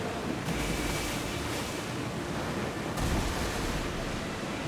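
Sea waves washing, with wind: a steady rush of noise that shifts abruptly about half a second and three seconds in.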